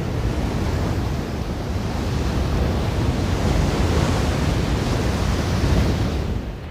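Ocean waves washing onto a beach: a steady rush of surf with a deep low rumble, swelling in the middle and falling away near the end.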